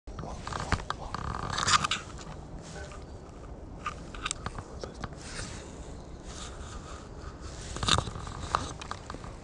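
Footsteps crunching and scraping on a walking path at an uneven pace, with a few louder steps.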